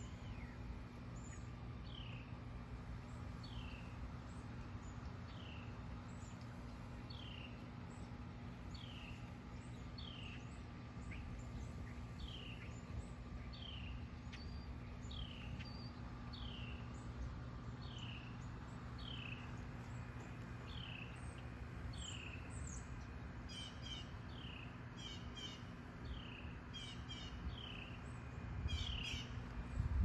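Birdsong: one bird repeats a single down-slurred whistle about once a second, and from about two-thirds through another bird adds short bursts of high, rapid notes. A steady low hum lies underneath.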